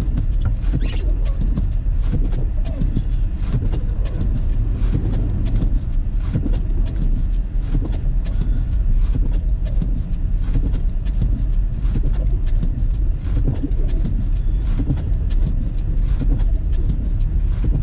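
A car driving on a snowy road: steady low road rumble with frequent irregular ticks and thumps throughout.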